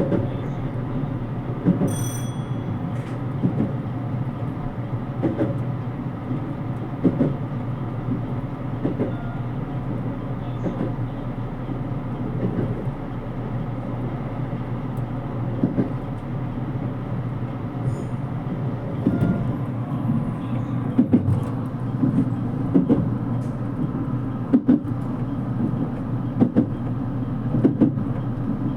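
Running noise inside a JR Kyushu 787 series express train: a steady low rumble of wheels on rail with irregular knocks. A brief high tone sounds about two seconds in.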